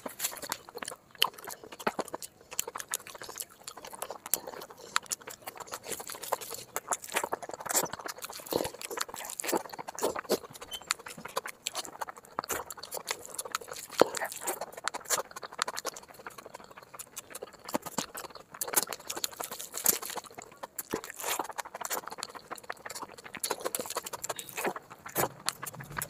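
Close-miked chewing of a mouthful of chicken biryani: wet mouth clicks and lip smacks, irregular and frequent.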